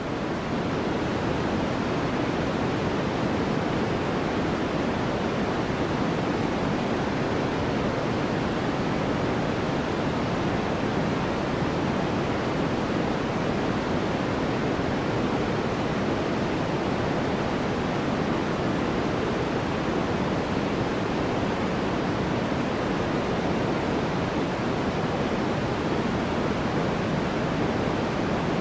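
Continuous generated white noise for sleep: an even, unchanging rush with no pattern or events, its weight toward the lower pitches rather than a bright hiss.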